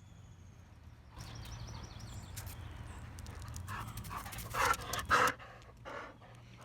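Dog panting, the breaths growing louder, with a few strong, heavy breaths near the end.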